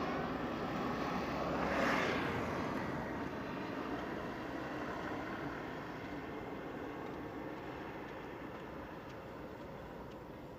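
Rumbling noise of an aircraft passing, loudest about two seconds in, then slowly fading away.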